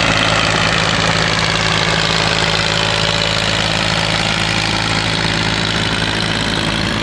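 Tractor-pulling tractor's engine idling steadily.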